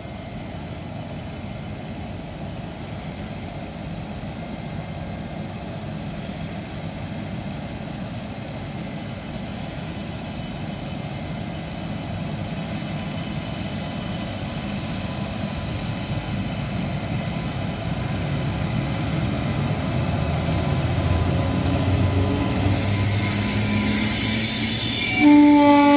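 Indian Railways WAP-7 electric locomotive hauling an express passenger train on the approach, its rumble growing steadily louder as it comes closer. A rushing hiss comes in as it passes close by, and about a second before the end the locomotive's horn starts a loud, steady blast.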